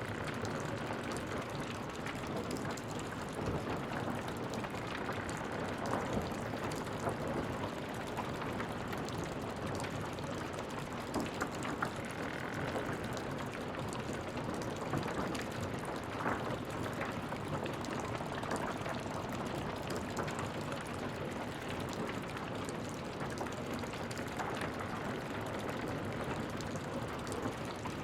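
Wood fire crackling in a fireplace: a steady hiss dotted with frequent small pops and snaps.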